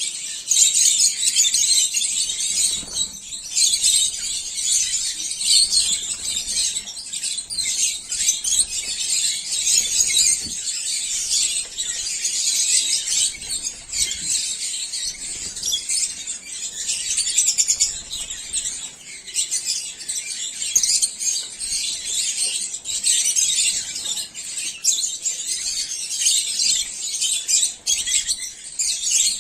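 A flock of caged peach-faced lovebirds chattering nonstop, many high chirps overlapping with no break.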